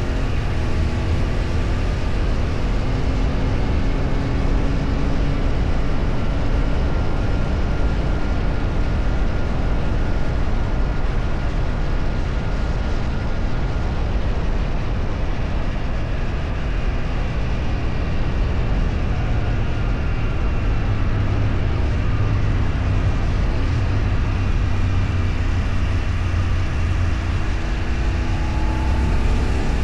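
Vehicle engine running steadily with road and wind noise while driving, its pitch drifting slowly up and down as speed changes.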